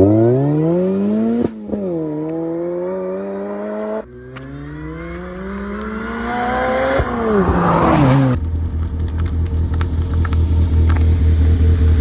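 Supercharged Vauxhall VX220's Saab 2.2 engine accelerating hard through the gears: revs climb, drop at a shift about a second and a half in, climb again, shift around four seconds, climb once more, then fall away as it backs off near eight seconds. It then settles to a steady, pulsing idle.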